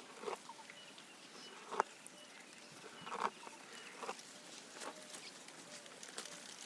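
A giraffe feeding on leaves and branches: short, scattered chewing and rustling sounds, roughly one every second or so, with faint bird chirps behind.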